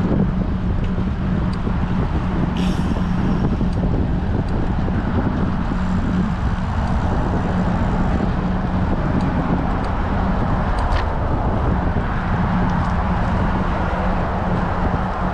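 Steady wind rush buffeting an action camera's microphone while riding a bicycle in strong wind, with a couple of faint clicks.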